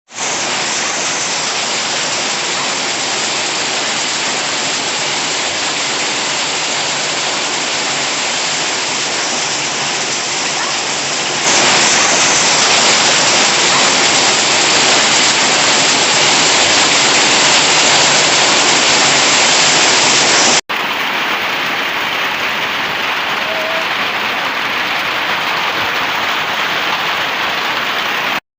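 Heavy rain mixed with hailstones pelting down in a dense, steady hiss. The sound jumps abruptly twice, at about 11 and 21 seconds in, and is loudest in the middle stretch.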